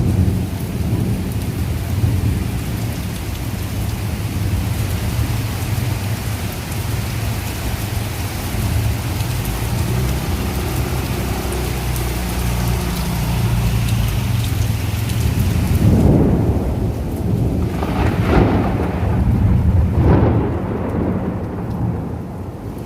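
Heavy rain falling during a thunderstorm, with thunder rumbling low and continuously. About two-thirds of the way through, the rain hiss thins and the thunder swells in three rolling rumbles.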